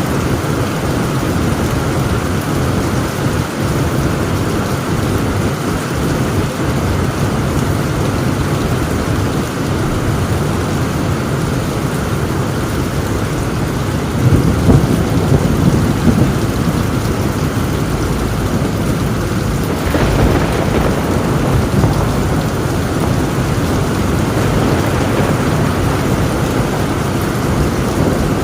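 Heavy rain drumming steadily on a tin roof, with rolling thunder swelling about halfway through and a sharper crack of thunder a few seconds later that rumbles on.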